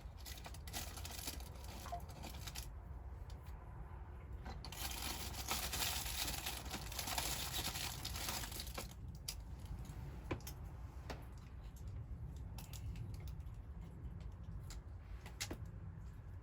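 A bag or wrapper rustling and crinkling, with scattered light clicks, and a longer stretch of tearing-like rustle from about five to nine seconds in.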